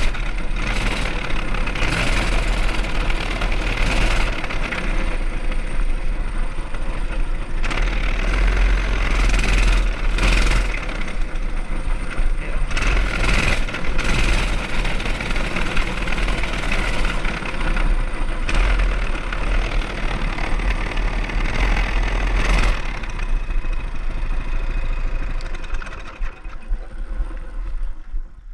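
Mini bike's small engine running during a ride, with a heavy low rumble throughout. It quiets near the end.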